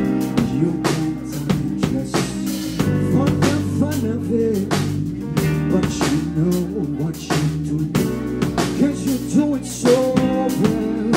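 Live band playing an instrumental passage, a drum kit keeping a steady beat under sustained pitched instruments.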